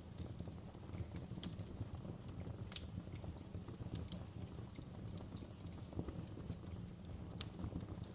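Wood fire crackling: a steady low rumble of burning with scattered sharp pops, the loudest a little under three seconds in and again about seven and a half seconds in.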